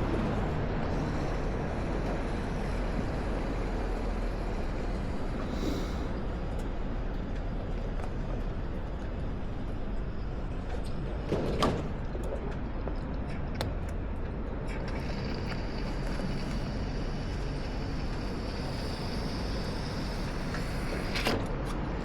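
Harley-Davidson Nightster's V-twin engine running steadily through a Jekill & Hyde adjustable exhaust, with wind noise. A short sharp knock sounds about halfway through, and another near the end.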